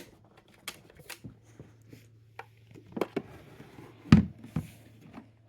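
Scattered light knocks and clicks, with one louder thump about four seconds in, over a low steady hum.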